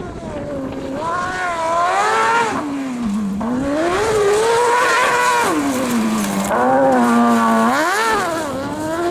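A competition rally vehicle's engine revving hard at high rpm, its pitch climbing and dropping several times as the driver accelerates, lifts and shifts through the stage.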